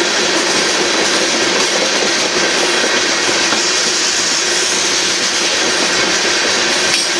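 Freight cars of an aggregate train rolling steadily past: a continuous loud rushing noise of steel wheels on the rails.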